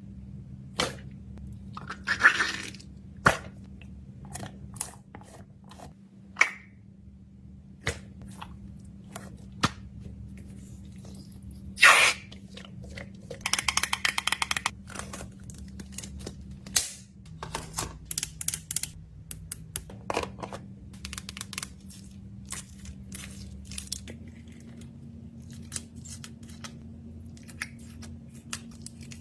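Hands packing food and fidget toys into a container: scattered clicks and taps of plastic, with crinkling and tearing of wrappers and a quick rattle of many small pieces about halfway through. Soft background music underneath.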